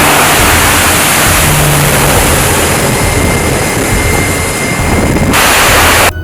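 Loud, steady rushing noise of engine exhaust, cutting in and out abruptly, over a low background music drone. It grows brighter and harsher for its last second.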